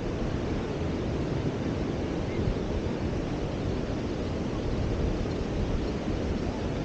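Steady surf and wind on a beach, with wind rumbling on the microphone.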